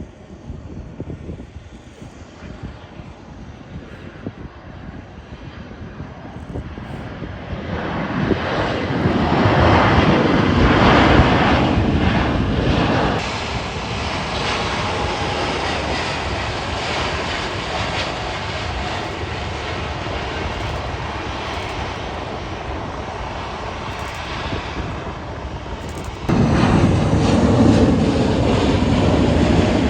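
Jet airliner's engines heard as a wide rushing rumble that builds up, is loudest about ten seconds in, then settles to a steady lower roar, before turning suddenly louder again near the end.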